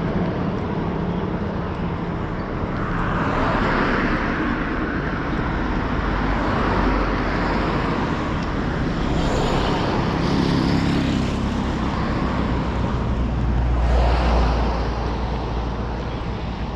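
Road traffic: cars passing one after another, each swelling up and fading, over a steady low rumble.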